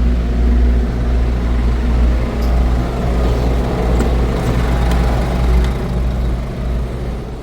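Scania truck's diesel engine running with a steady, loud low drone, with a few light clicks over it.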